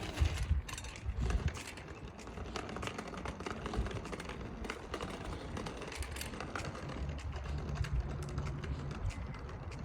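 Bicycle riding noise: many irregular light clicks over a low rumble.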